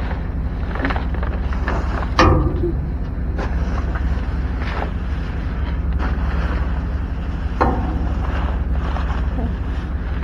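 Cardboard and other salvaged items being handled: scattered rustles and knocks, with a sharp knock about two seconds in, over a steady low rumble.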